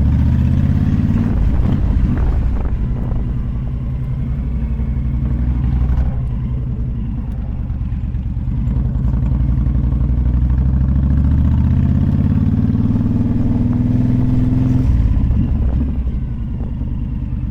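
Honda VTX 1300's V-twin engine running under way. The revs climb for several seconds, then drop sharply near the end.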